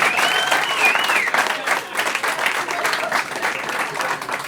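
Live comedy audience applauding, with a high rising-and-falling whistle or call over the clapping in the first second or so; the applause thins out near the end.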